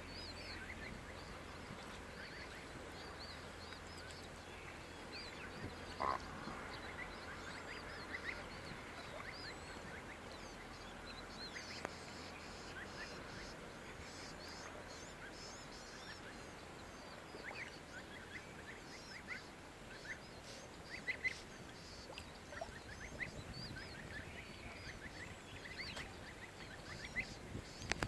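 Faint, scattered high chirps and peeps of birds, with a short, lower, louder call about six seconds in.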